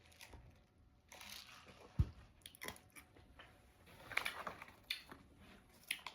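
Close-miked eating sounds: a person chewing and biting food, with wet smacks and small clicks scattered through. A single sharp thump about two seconds in.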